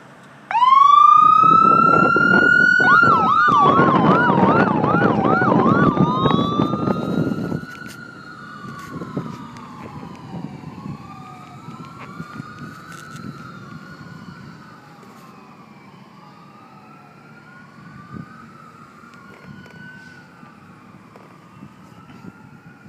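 Fire ladder truck's electronic siren starting up about half a second in with a rising wail, switching to a fast yelp, then returning to slow wails that fade as the truck moves away. A loud low rumble sits under the siren for about the first seven seconds.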